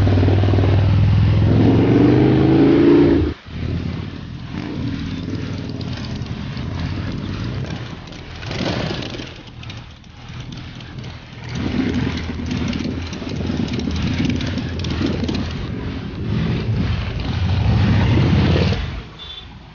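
Superbike engines with loud aftermarket exhausts running and revving; the revs climb about two seconds in. A little after three seconds the sound cuts off abruptly, and engine and road noise carry on at a lower level, swelling several times as bikes accelerate.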